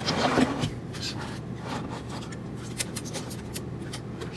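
Scattered small clicks and rustles of hands handling printer wiring and small plastic parts, with a brief louder rustle at the start, over a low steady hum.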